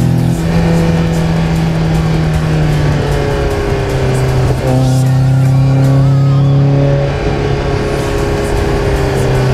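1990 Toyota MR2 SW20's naturally aspirated four-cylinder engine through a decatted stainless Mongoose exhaust, running at held revs whose pitch steps down a few times.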